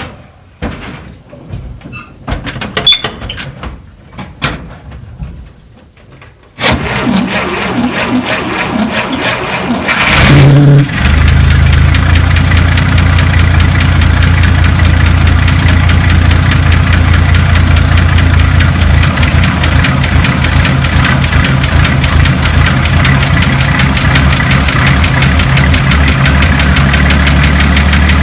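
A 1948 Dodge flathead straight-six being cold-started at about freezing. A few scattered clicks come first, then the starter cranks it for about four seconds before it catches and settles into a steady run.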